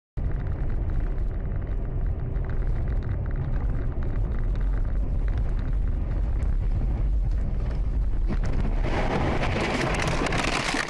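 A car driving, heard from inside the cabin: a steady low rumble of engine and road noise. About two seconds before the end, a harsher rushing noise joins it.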